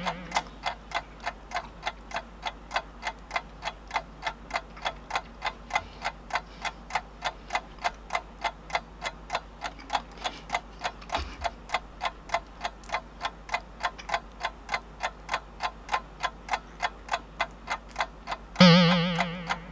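Countdown timer ticking steadily, about two or three ticks a second. Near the end comes a short wavering hum.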